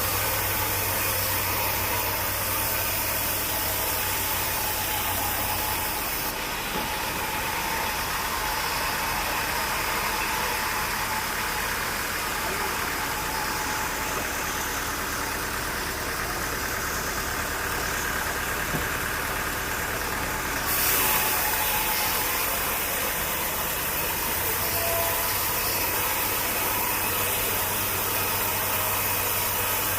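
Sawmill machinery running with a steady, noisy engine drone; the sound changes abruptly about six seconds in and again about twenty-one seconds in.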